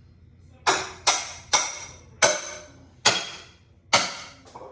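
A big hammer striking metal: six sharp, ringing blows at an uneven pace, about one every half second to second.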